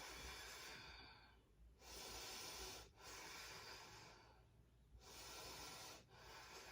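A woman breathing audibly and slowly while holding a yoga pose: faint, airy breaths in and out, about five in a row, each lasting roughly a second.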